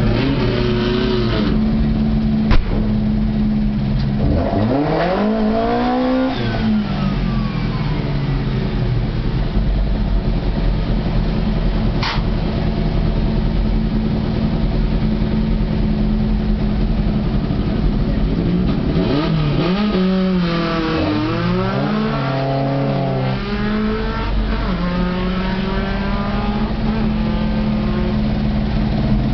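Fiat 128 hillclimb car's engine idling, heard from inside the cabin, with the throttle blipped up and down once about five seconds in and several times in quick succession around twenty seconds in. A sharp click sounds about two and a half seconds in.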